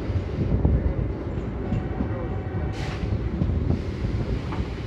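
Electric MEMU train running at speed, heard from its open doorway: a steady rumble of wheels on rail, with a short hiss about three seconds in.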